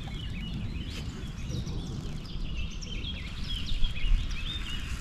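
Small birds singing and chirping in quick, short notes over a steady low rumble.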